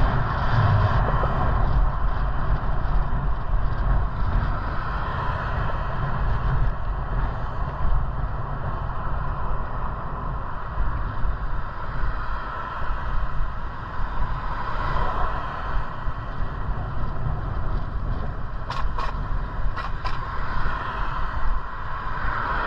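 Steady rumbling ride noise from a bicycle rolling along a trail, with wind buffeting the microphone. A few sharp clicks come near the end.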